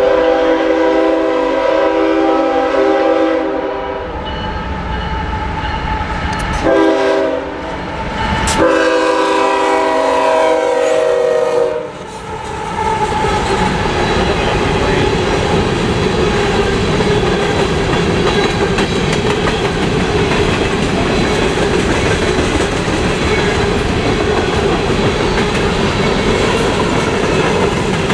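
Freight locomotive air horn blowing: a long blast, a short one, then another long one. After that the train rolls past with a steady rumble and the clatter of wheels on the rails.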